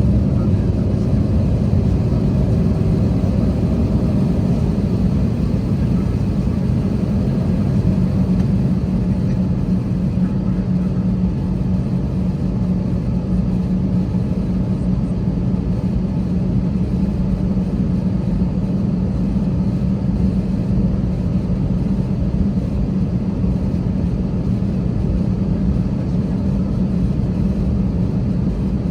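Airbus A320 airliner heard from inside the cabin: steady engine and airflow noise, a low rumble with a steady hum, easing slightly over the first several seconds and then holding even.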